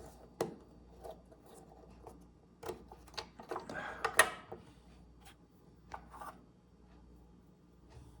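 Scattered light clicks and rubbing of small plastic parts as a microwave door interlock switch is worked in its plastic latch bracket, with a cluster of clicks about four seconds in.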